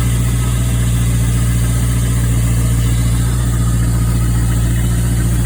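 The 5.7-litre LS1 V8 of a 2004 Pontiac GTO idling steadily. An exhaust leak at the manifold, where bolts have broken off, typically gives a light ticking, which the owner calls not that bad.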